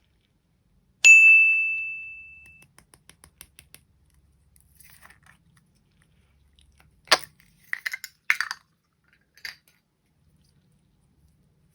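A single bright ding about a second in, one clear pitch ringing out and dying away over about a second and a half. Then faint ticking, and several sharp clicks or light knocks later on.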